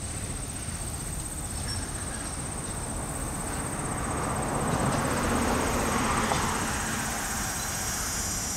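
Autorack freight cars rolling slowly past, steel wheels knocking over rail joints under a steady rumble. The rolling noise swells about halfway through.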